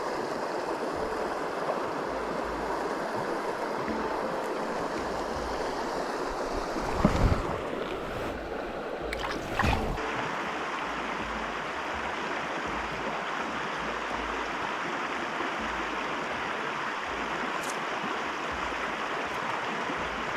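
Small stream running steadily over riffles, with two brief knocks about seven and ten seconds in.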